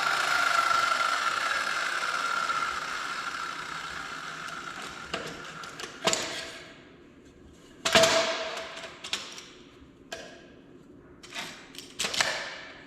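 A power tool's motor spinning down and fading away over several seconds, then several separate knocks and clatters of cut pieces being handled and set down.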